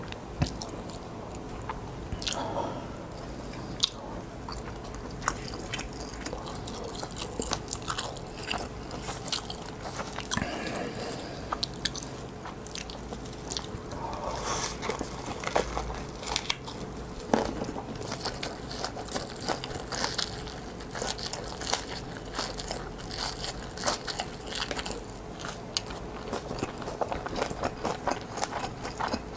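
Close-miked chewing of a mouthful of ramen and whole kimbap roll, with a bite into the kimbap partway through. Many small wet mouth clicks ride over a faint steady hum.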